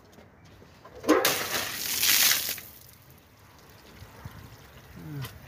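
Water splashed onto concrete facade tiles on a wall: one rushing splash lasting about a second and a half, starting about a second in.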